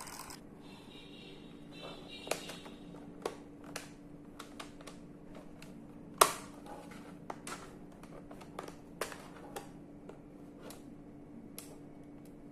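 Scattered light clicks and taps of screws being undone from an HP laptop's case, with one sharp knock about six seconds in, over a steady low hum.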